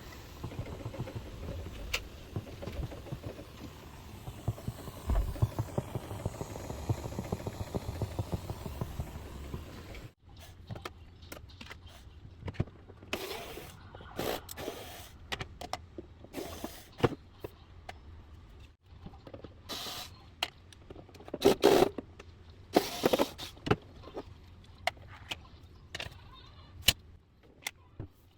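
Irregular clicks, knocks and short rustles of handling, over a steady low rumble for the first ten seconds. After an abrupt change the clicks are sparser, with a few louder rustling bursts in the second half.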